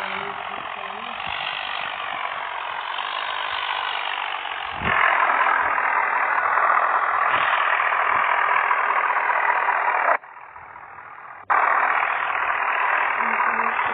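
Tractor engine running steadily. It grows louder about five seconds in and cuts out abruptly for about a second a little after ten seconds.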